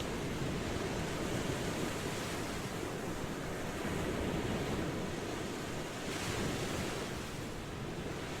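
Ocean waves washing in a steady rush, swelling slightly toward the end.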